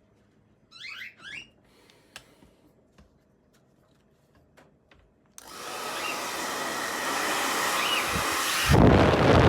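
Hair dryer switched on about five seconds in, its motor and fan blowing with a steady rush of air that builds a little, then jumps louder with a deep rumble near the end. A few light clicks come before it.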